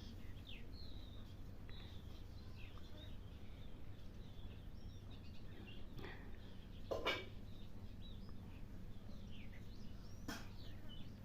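Small birds chirping here and there in the background over a steady low hum, with a brief louder sound about seven seconds in and a sharp click about ten seconds in.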